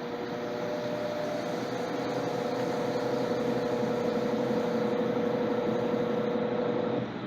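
Electrolux LTC10 top-loading washing machine running on its jeans programme: a steady mechanical hum with one held tone. The hum grows louder over the first couple of seconds and stops suddenly about seven seconds in.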